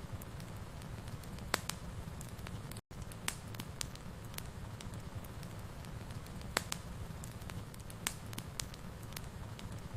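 Wood fire in a fireplace crackling, with sharp irregular pops over a low steady rumble. The sound cuts out for an instant about three seconds in.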